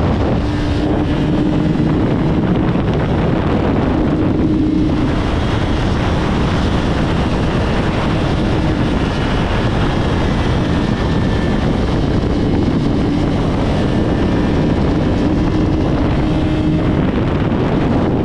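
Honda CBR600RR's inline-four engine running at a steady pitch while the bike is ridden, largely buried under heavy wind noise on the camera microphone.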